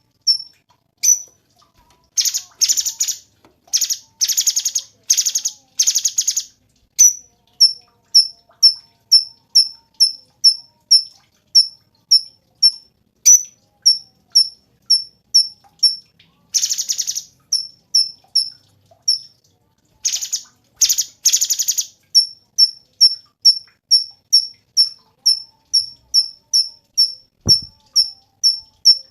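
Cucak cungkok singing: a fast, even series of short, high chirps, about two a second, broken now and then by louder buzzy, rattling bursts.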